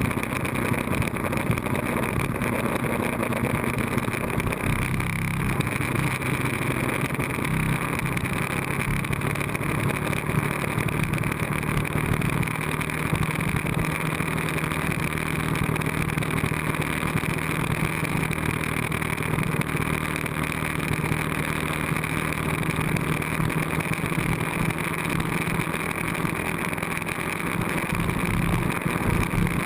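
Ducati 1098S L-twin engine running at a steady highway cruise with wind and tyre noise; the engine note rises a little about seven seconds in.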